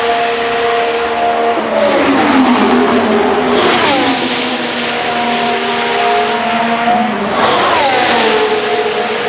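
Formula 1 cars passing one after another at speed, about three in turn, each high engine note dropping sharply in pitch as the car goes by and then fading away.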